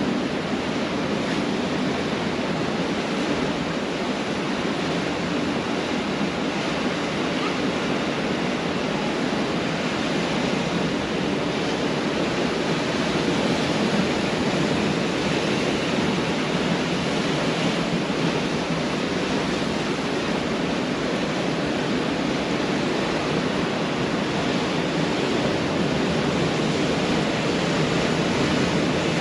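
Ocean surf washing onto a beach: a steady, unbroken rush of water noise with no single crash standing out.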